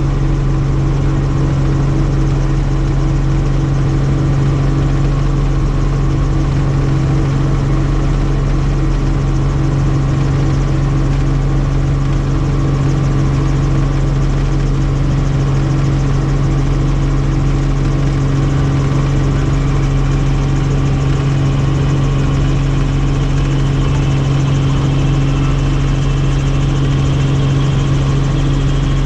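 Helicopter in flight: a steady, loud drone of turbine and rotors with a strong low hum, unchanging throughout.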